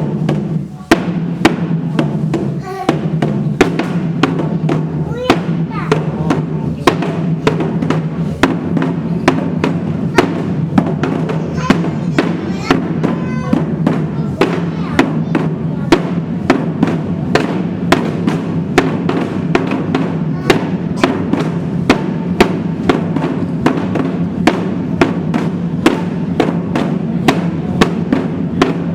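Samulnori percussion ensemble playing a steady, fast rhythm of sharp strikes: small gong, hourglass drum, barrel drum and large gong beaten together.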